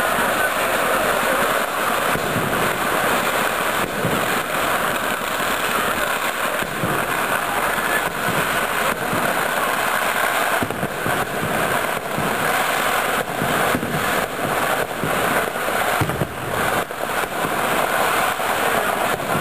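Fireworks going off in a dense, continuous barrage of bangs and crackling, with quick strings of sharp bursts in the second half.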